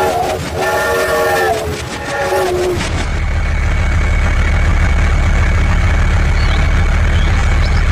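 A horn sounding a chord of several notes in two long blasts, ending about three seconds in, followed by a steady low engine rumble.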